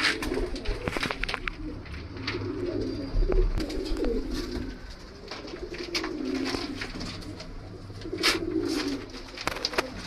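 Domestic pigeons cooing, about five low warbling coos, mixed with scattered sharp clicks and taps.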